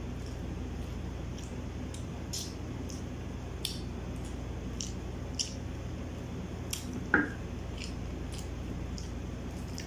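Close-miked chewing of barbecued chicken: irregular wet mouth clicks and smacks over a steady low hum. One louder, sharper sound about seven seconds in.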